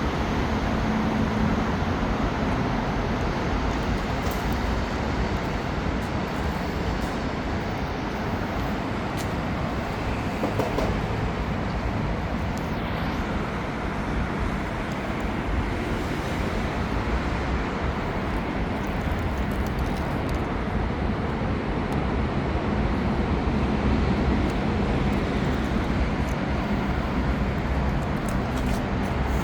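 Steady motor-vehicle noise: a low, continuous rumble of engine and traffic.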